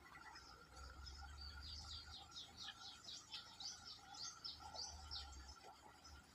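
A small bird chirping: a quick run of short, high notes, each falling in pitch, about four a second, starting about a second and a half in and stopping about five seconds in.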